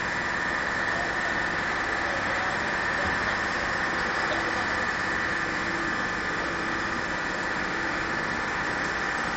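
A vehicle engine running steadily at idle under an even, constant noise.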